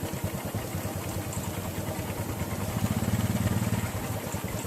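A small engine running steadily with a fast low pulse, a little louder for about a second near the middle.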